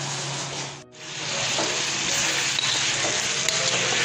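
Chicken pieces, chopped tomatoes and green chilli frying and sizzling in a karahi while being stirred with a spatula. The sizzle drops out briefly about a second in, then comes back louder, with light scrapes of the spatula on the pan.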